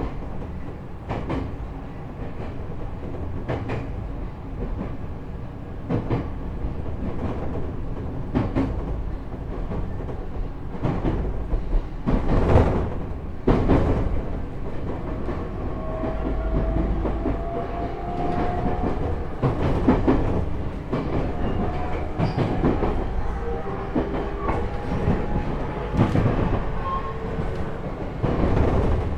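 Running sound inside a JR East E127 series electric car (KuMoHa E127-11, Toyo Denki GTO-VVVF inverter) under way: a steady rumble with rail-joint clacks every second or two. From about halfway through, thin gear and motor whine tones come in, one rising slightly with speed. On this car the gear whine carries an extra tone a semitone above the usual one, the car's known abnormal noise.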